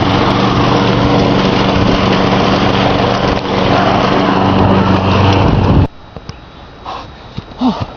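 A motor engine running loudly and steadily, cutting off abruptly about six seconds in; a few faint short chirps follow.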